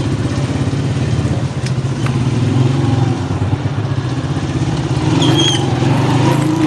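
A motor vehicle's engine running steadily, a continuous low drone with a rapid, even pulse that holds throughout.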